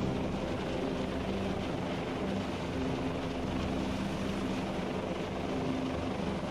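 Helicopter running: a steady rotor and engine noise at an even level.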